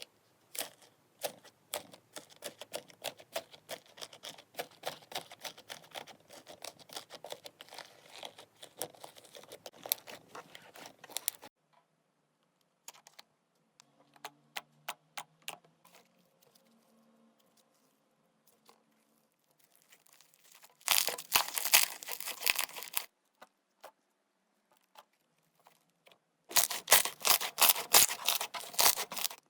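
Slime being pressed and worked by hand, making quick clicks and pops. The clicking is steady for the first ten seconds or so, then it goes quieter, and two short, louder bursts of dense crackling come in the second half.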